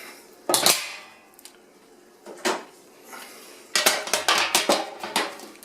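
A cover being fitted onto a honey extractor, with metallic clanks: one sharp knock about half a second in, another about two seconds later, then a quick run of clattering knocks near the end.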